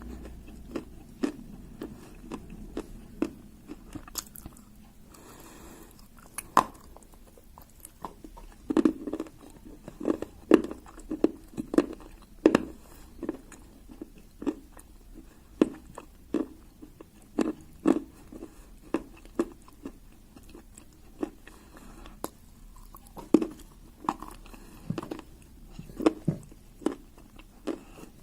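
Pieces of dry clay being bitten and chewed, with sharp crunches coming about once or twice a second.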